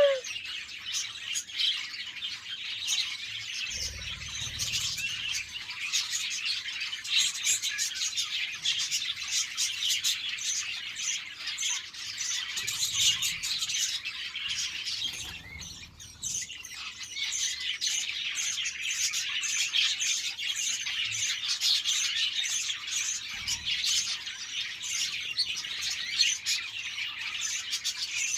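A flock of budgerigars chattering and chirping continuously, many birds calling at once in a dense, overlapping warble, with a brief lull about halfway through.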